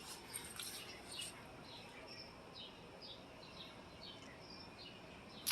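A small bird chirping over a faint outdoor background: a run of short, high chirps that each drop in pitch, about two or three a second. A brief loud knock or rustle comes right at the end.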